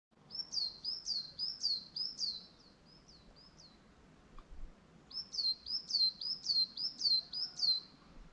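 A songbird singing two runs of rapid, high, repeated chirps, about three or four notes a second, the second run starting about five seconds in.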